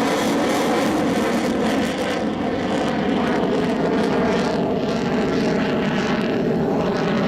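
Mitsubishi F-2 fighter's single turbofan jet engine, a loud steady jet noise as the aircraft flies its display.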